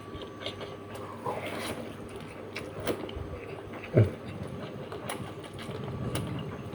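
Close-up mouth sounds of eating a braised patin catfish head: wet chewing, sucking and lip smacks in scattered clicks. About four seconds in comes a short, falling voiced sound like an appreciative "mm".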